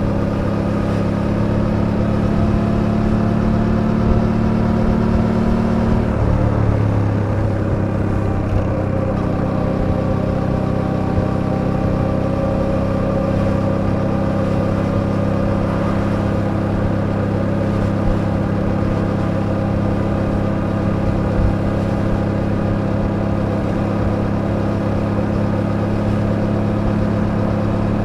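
Suzuki V-Strom 800DE's parallel-twin engine running steadily while riding. The engine note drops to a lower, steady pitch about six seconds in, then holds.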